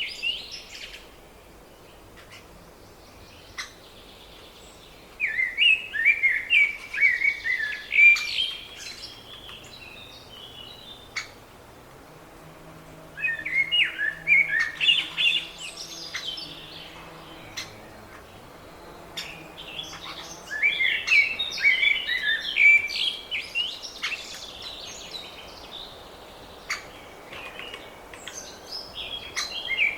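A small songbird singing repeated bursts of quick chirping notes, three phrases a few seconds apart and a fourth starting near the end, with quieter outdoor background between them.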